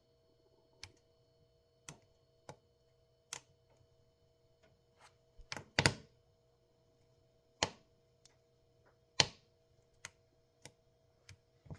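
Firewood crackling and popping as it burns in a wood-burning stove: irregular sharp pops, loudest in a quick cluster about six seconds in and a single loud pop a little past nine seconds, over a faint steady hum.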